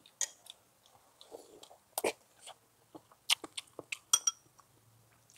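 Close-up chewing and mouth sounds of someone eating hot pot, with scattered short clicks and clinks of utensils on a bowl.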